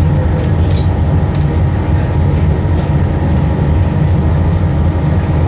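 Inside an Adelaide Metro diesel railcar under way: a steady, loud low rumble of the engine and running gear, with faint scattered ticks from the wheels on the rails.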